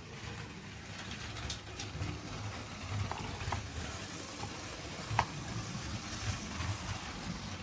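Motorised Lego train running around plastic track: a steady motor and wheel rattle with a few faint clicks.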